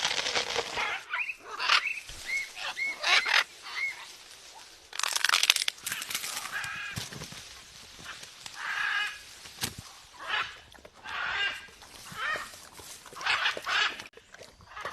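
Parrot calling in short squawks and chirps, repeated every second or two, with a stretch of scratchy noise about five seconds in.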